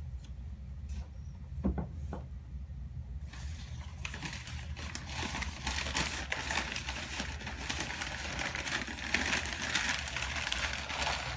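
Crinkling, rustling packaging being handled, starting about three and a half seconds in after a few light clicks, over a low steady hum.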